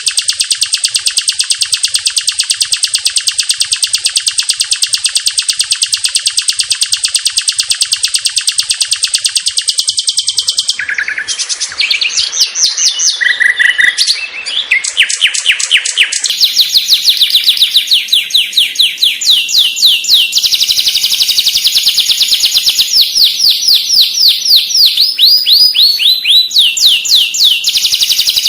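Long-tailed shrike (cendet) song recording full of mimicked phrases. It opens with a dense, very fast high trill for about ten seconds, breaks into a few varied shorter notes, then runs into long series of rapid downward-sweeping chirps.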